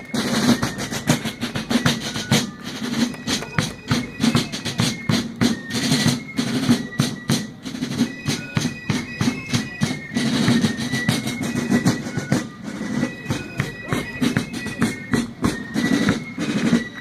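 Fife and drum corps playing a march: high fifes carry a stepping melody over rapid snare drum strokes and bass drum beats.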